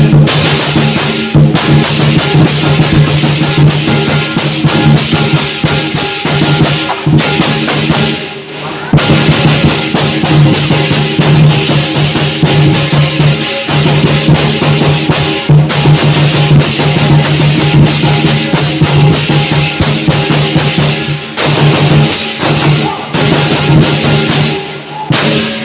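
Lion dance percussion: a large drum beating fast and steadily with crashing cymbals and a ringing gong, the rhythm broken by several brief pauses and accents.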